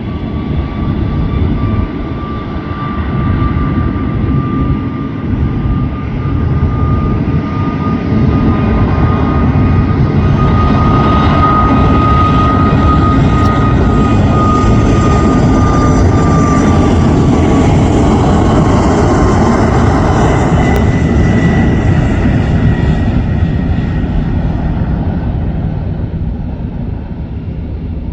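Jet airliner taking off: a loud engine rumble with a high whine swells as the plane passes, then the whine drops in pitch and the sound slowly fades.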